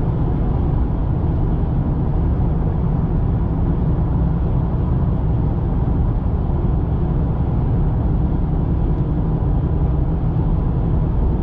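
Steady, loud low rumble of a vehicle on the move, with no change in pitch or level.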